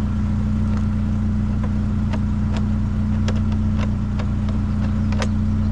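Vehicle engine idling with a steady low hum, under scattered light clicks and clinks as a scrapped item is taken apart by hand.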